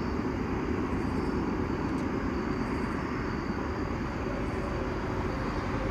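Steady low rumbling drone of a distant approaching Norfolk Southern train, holding even throughout.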